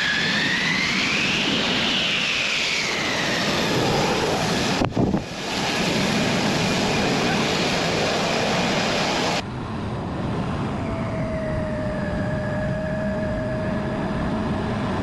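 Fighter jet engine running, a loud rushing noise with a whine that rises and then falls over the first few seconds. The sound breaks off sharply twice, about five and nine seconds in, and later settles to a steadier, lower whine.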